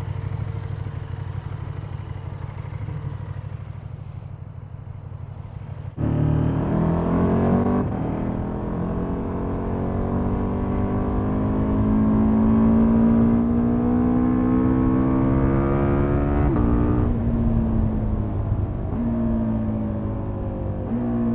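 KTM Super Duke's V-twin engine through its stock exhaust, running low and steady, then opening up hard about six seconds in. The revs climb in steps through several gear changes, drop near the sixteen-second mark, and settle into steadier running with a couple more shifts near the end.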